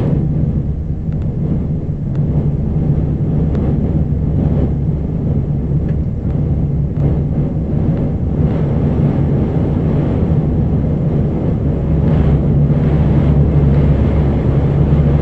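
Steady low drone of an airliner's engines and airflow, heard from inside the passenger cabin during the landing flight.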